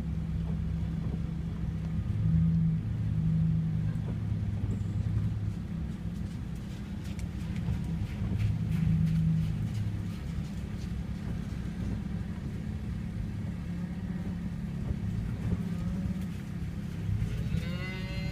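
Herd of cattle mooing as it is driven along, over a steady low hum from a vehicle engine. One clear moo rises and falls near the end.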